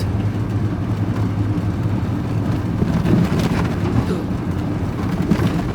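Vehicle engine running steadily with road noise inside the cab while driving along a forest track, with a few knocks and rattles about halfway through and near the end.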